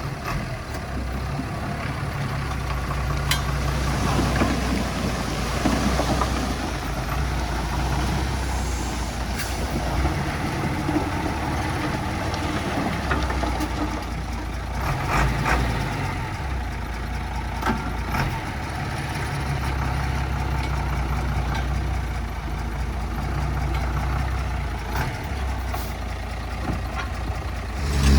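Diesel engine of heavy earthmoving equipment running under load, a low drone that eases off around the middle and builds again, with scattered short metallic clanks and knocks.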